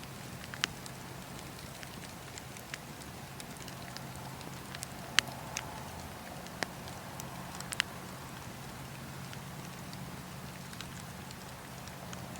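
Wood fire burning in a fireplace with a steady low rumble and irregular sharp crackles and pops, a handful louder than the rest, the loudest about five seconds in.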